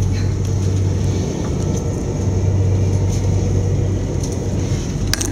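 Steady low rumble and hum of an Electrostar electric train running at speed, heard from inside the carriage. A few sharp clicks come near the end.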